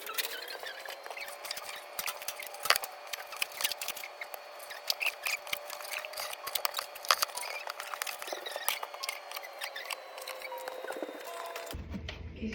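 Quick clicks, snips and scraping from raw chicken being trimmed of its fat, over a steady whine that rises in pitch at the start and then holds. The whine and clicks stop abruptly near the end, leaving a low hum.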